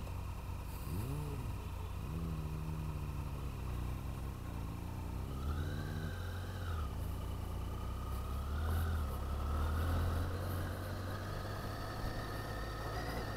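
Motorcycle engine heard from the rider's seat, revving and pulling away on gravel. Its pitch rises in two surges as it accelerates, about five and eight seconds in, and it is loudest around ten seconds in.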